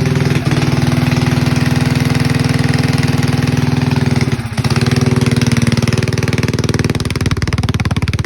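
Predator 212 single-cylinder four-stroke minibike engine running loud and steady with a rapid firing beat. It dips briefly about four and a half seconds in, then runs a little lower and less evenly near the end.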